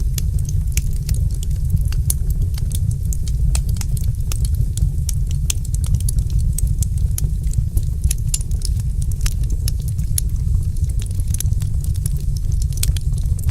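Wood fire crackling, with many small sharp pops and snaps, several a second, over a steady low rumble.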